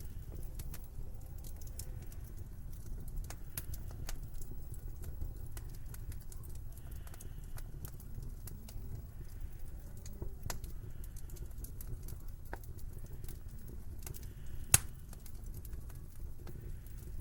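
Wood fire crackling in a fireplace: scattered small pops and snaps over a low steady rumble, with one sharp, much louder pop near the end.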